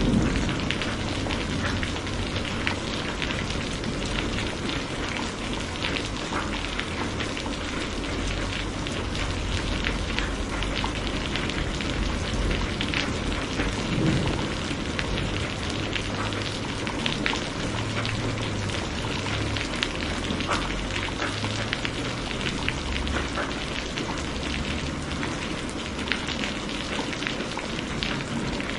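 Steady heavy rain falling, a dense hiss full of individual drop ticks, with a low rumble of thunder dying away right at the start.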